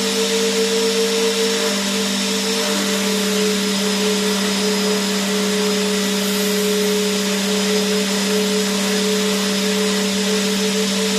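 Vacuum cleaner running steadily: a constant motor hum with a higher whine that wavers slightly, over an even rushing hiss of air.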